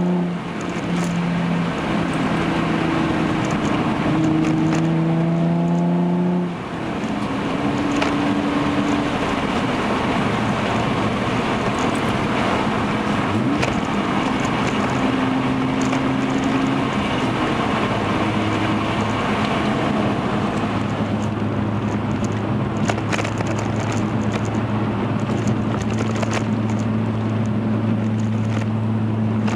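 Hyundai Genesis Coupe's 3.8-litre V6 through a Young Motors catback exhaust, heard from inside the cabin while driving. The exhaust note climbs under acceleration for about six seconds and drops suddenly at an upshift, then settles into a steady low drone at cruise.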